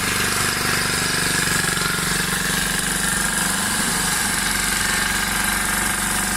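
An engine running steadily at an even speed, with a fast, even firing pulse and no change in pitch.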